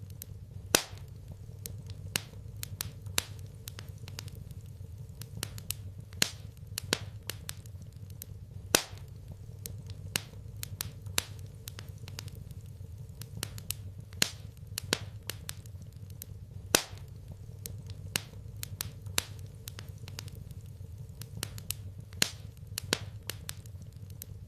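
Wood fire crackling in a fireplace: irregular sharp snaps and an occasional louder pop over a low steady rumble.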